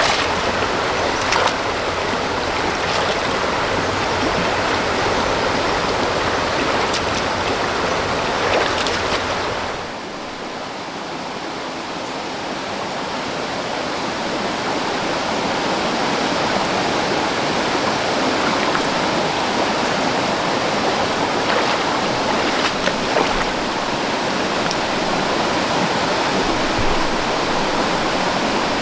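Steady rushing of water, with a brief quieter stretch about ten seconds in that slowly builds back up.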